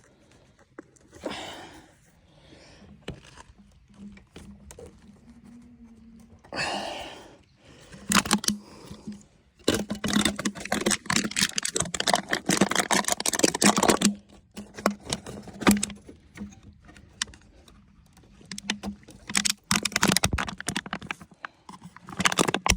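Hand-handling noise: irregular clicks, taps and rustling as a tight fuel line is worked loose from a minimoto's carburettor, with a busy stretch of clattering in the middle.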